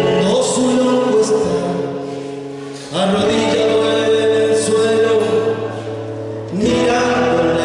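Argentine folk song with singing in long held phrases; a new phrase starts about three seconds in and another near the end.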